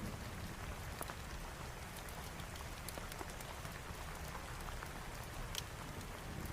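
Steady rain falling, with scattered sharp clicks through it.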